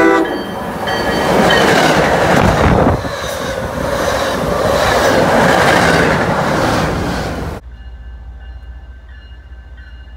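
MBTA commuter rail train passing at speed: a horn blast ends just after the start, then the loud rumble and clatter of the train's wheels as the bi-level coaches go by. About three quarters of the way through it cuts off suddenly to a much quieter steady background.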